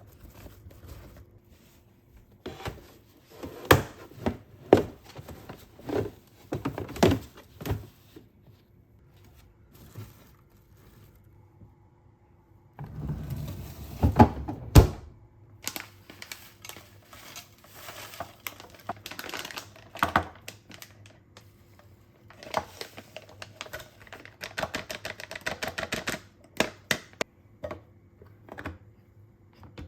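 Small household goods and their packaging being handled. Scattered clicks and knocks of items being picked up and set down, a rustle of packaging about halfway through, and a fast run of small ticks near the end.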